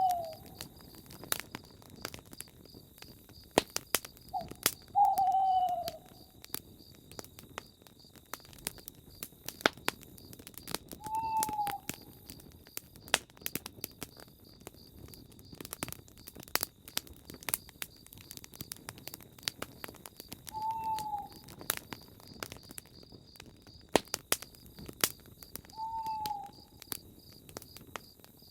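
Campfire crackling with frequent sharp pops, while a night bird repeats a single short falling hoot about five times, several seconds apart. Behind it runs a steady high insect trill.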